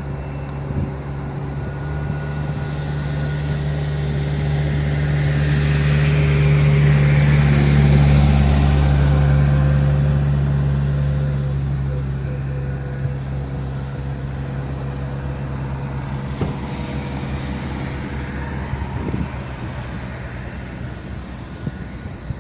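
Boeing 737-800 jet with its CFM56-7B engines passing by: a steady low hum with a high hiss that swells to a peak about eight seconds in, drops in pitch as it goes past, and slowly fades.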